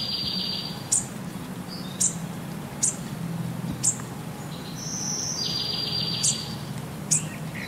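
Bird chirps: short, sharp, high notes about once a second, with a longer buzzy trill near the start and another about two-thirds of the way through, over a steady low hum.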